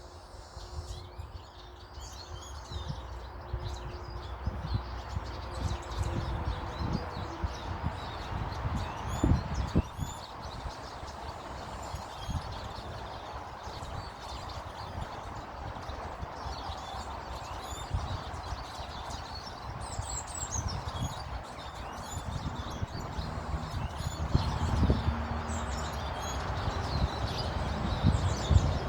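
Small garden birds chirping and calling again and again, over a steady low outdoor rumble with a few dull thumps.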